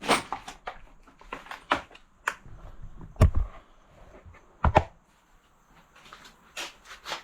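Things being moved and knocked about while someone rummages through clutter: a string of scattered clicks and knocks, with two heavier thumps a little past the middle.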